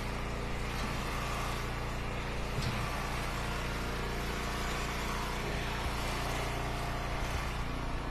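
Eastonmade hydraulic wood splitter's engine running steadily at an even speed.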